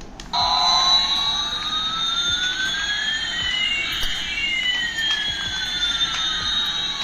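Battery toy's electronic sound effect: a hiss with two synthetic tones sliding past each other, one rising and one falling, crossing about halfway through, like a toy jet or siren sound.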